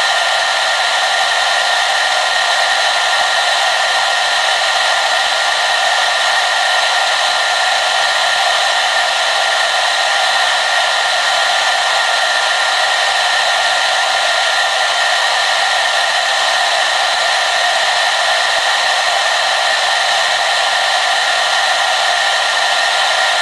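Hair dryer running steadily: a constant rush of air with a thin steady whine from its motor, no change in speed.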